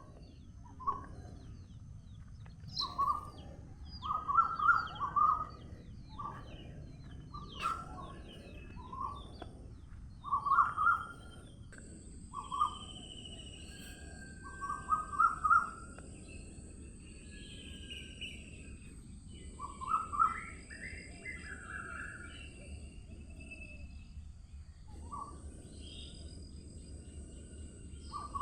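Birds chirping in short, repeated phrases every second or two, with fainter higher bird calls behind them, over a steady low background noise.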